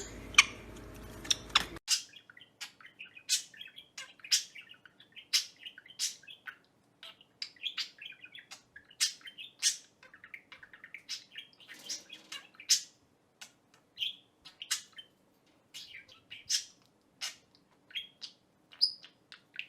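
Small pet bird chirping over and over: short, sharp, high-pitched chirps, about one or two a second at irregular spacing. A low background hum cuts off about two seconds in.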